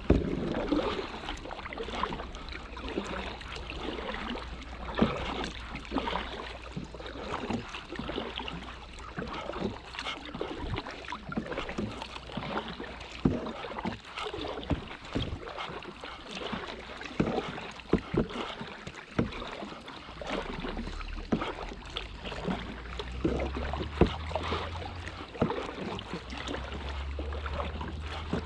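Kayak paddling: paddle blades dipping and splashing in the river water, with frequent irregular light knocks and clicks.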